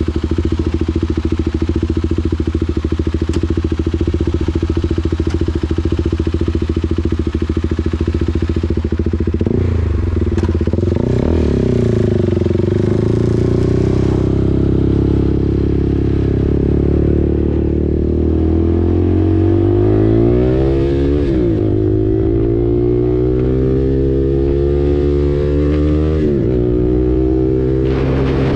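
KTM RC 390's single-cylinder engine through an SC Project exhaust, running at a steady note, then accelerating from about ten seconds in. The pitch climbs, drops sharply at an upshift, climbs again and drops once more at a second shift near the end.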